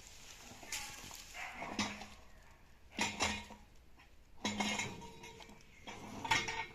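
Metal tools clanking against a truck wheel during a tyre change: about four separate clanks, each with a brief metallic ring.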